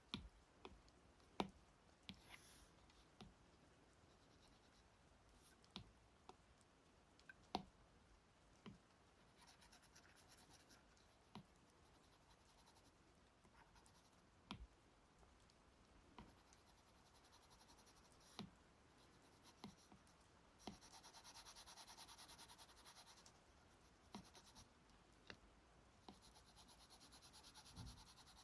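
Stylus tapping and stroking on a tablet's glass screen: scattered sharp taps, with a few longer scratchy strokes, the longest about two-thirds of the way through.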